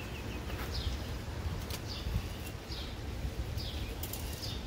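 A bird calling with short, high, downward-sliding chirps, repeated about once a second, over a steady low outdoor rumble.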